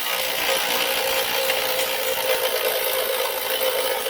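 A power tool running in one long steady burst, a dense hissing whir with a steady underlying tone.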